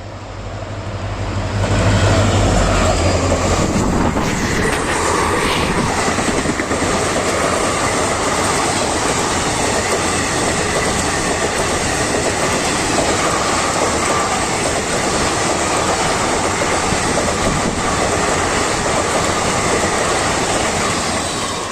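Indian Railways WDP4D diesel locomotive passing at speed, its engine rumble swelling to a peak about two seconds in. It is followed by a long rake of coaches rushing by with continuous wheel-on-rail clatter and a faint squeal, fading near the end.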